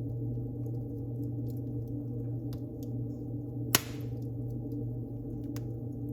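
Wood fire crackling in a fireplace: scattered small crackles over a steady low drone, with one sharp loud pop about four seconds in and a smaller one near the end.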